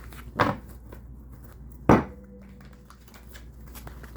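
Tarot cards being handled on a table: two sharp slaps about a second and a half apart, the second the louder, with faint rustling between.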